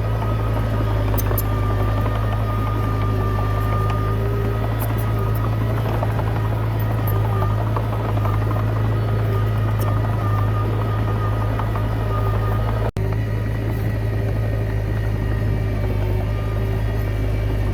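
Komatsu D20P bulldozer's diesel engine running steadily, a constant low drone with a faint higher whine over it. The sound drops out for an instant about 13 seconds in.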